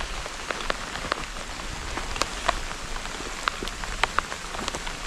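Rain falling steadily, a constant hiss with many single drops striking close by as sharp ticks.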